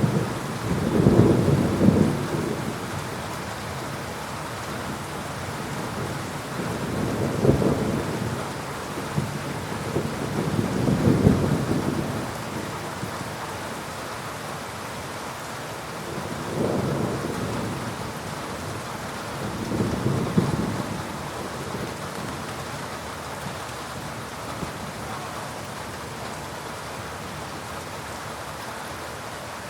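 Thunderstorm: steady heavy rain with rolls of thunder, about five low rumbles that swell and fade, the loudest near the start and about eleven seconds in. The last third is rain alone.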